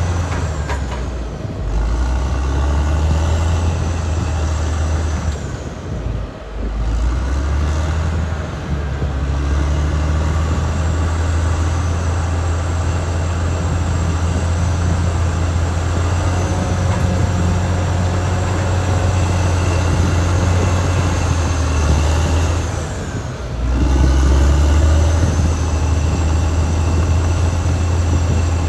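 Caterpillar D6R XL bulldozer's diesel engine running steadily at working revs with a deep drone, briefly easing off three times: about a second and a half in, around six seconds in and near twenty-three seconds in.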